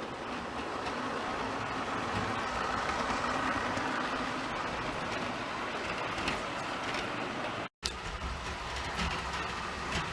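Model train running on the layout: a steady whir of the locomotive's motor and wheels on the track, with a few light clicks. The sound breaks off for an instant about three-quarters of the way through, then carries on with more low rumble.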